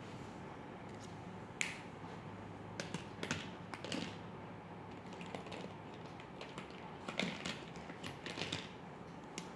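A drawing tool on paper: a scattered run of short taps and brief scratchy strokes, over a steady low hum.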